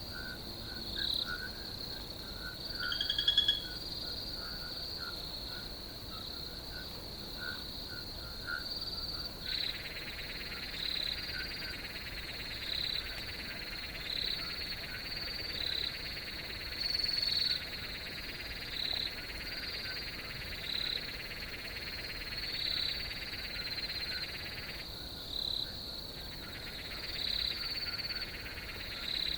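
Crickets chirping in a steady chorus: a continuous high trill with louder pulses about every two seconds. A second, lower buzzing trill joins about a third of the way in, drops out briefly near the end and comes back.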